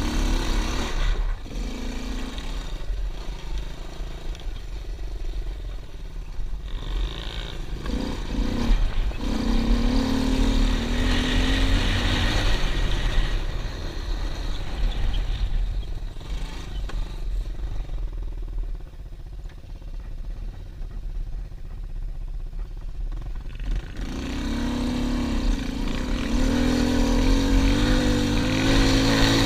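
Pit bike engine revving up and down as it is ridden, over a steady low rumble. It eases off for several seconds past the middle and builds again near the end.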